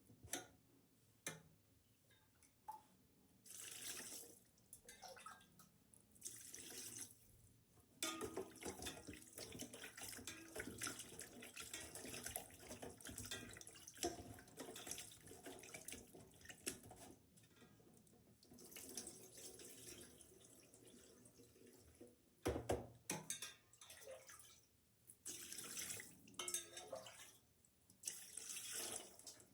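Water running from a tap and splashing in a sink, in uneven stretches that stop and start several times.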